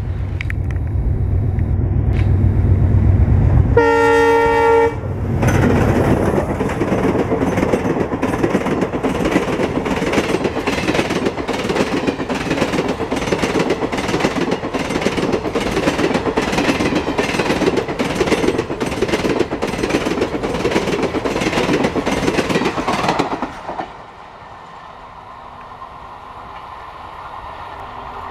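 WDM-3A diesel locomotive approaching with a deep engine rumble, sounding a short horn blast about four seconds in. Its express coaches then pass at about 105 km/h with a loud, steady, rapid clatter of wheels over the rail joints for some eighteen seconds. Near the end the sound drops suddenly to a fainter rumble as the train recedes.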